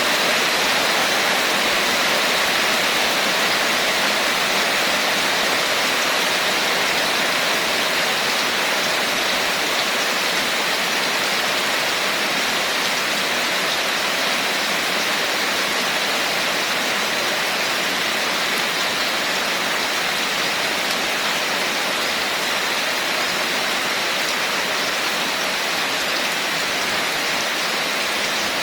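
Steady rain falling, a continuous even hiss with no separate drops standing out.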